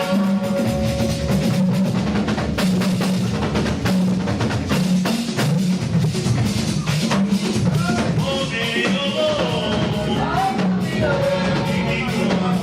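Praise band music: a drum kit keeping a busy beat over a bass line, with a higher melodic part coming in about two-thirds of the way through.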